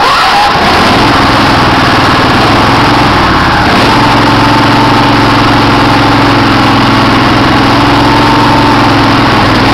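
Craftsman riding mower engine running just after catching on a cold start, with the throttle all the way up and the choke on. It runs loud and steady, and its note firms up and settles about four seconds in.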